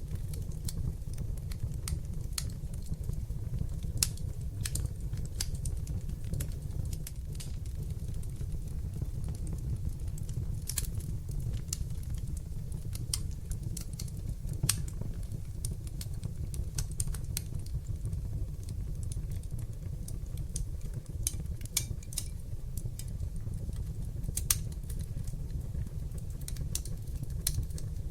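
Fire in a fireplace crackling: a steady low rumble of flames with frequent, irregular sharp pops and snaps, a few of them louder than the rest.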